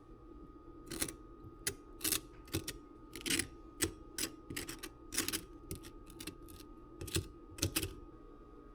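A quick, irregular series of sharp clicks and taps, about twenty of them, over a steady low hum.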